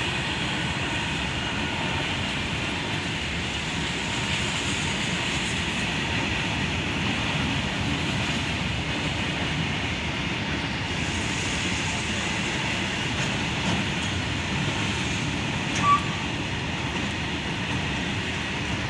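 Indian Railways train passing a level crossing: a steady rumble and rattle of wheels on rail. A short, sharp beep sounds near the end.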